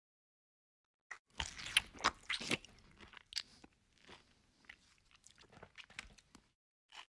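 A person biting into and chewing a fried chicken leg close to the microphone: a run of loud crunches starting about a second in, then quieter, scattered chewing sounds.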